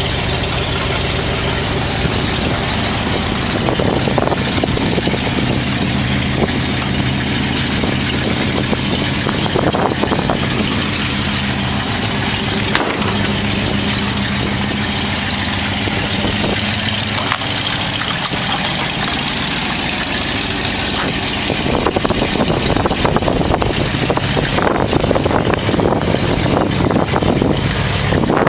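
V8 engine of a custom 1951 Ford F-1 pickup idling steadily, growing louder and noisier for the last several seconds.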